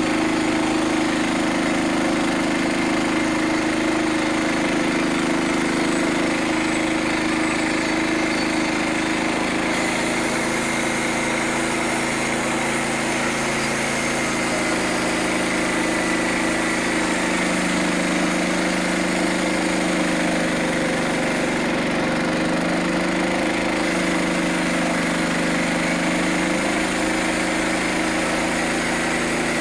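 Portable band sawmill's small gasoline engine running steadily, its pitch shifting slightly now and then, with a faint high whine above it.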